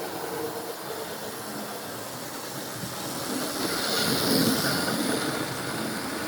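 Model steam locomotive running on a model railway, with a steady hiss of steam and a rumble of wheels on track. It grows louder about four seconds in as it passes, then eases off.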